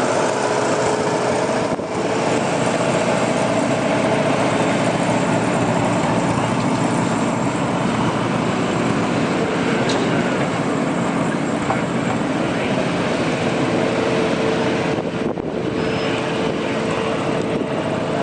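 Antique farm tractor engine running hard under load as it pulls the weight sled, a steady loud engine note that holds through, with brief dips near the start and near the end.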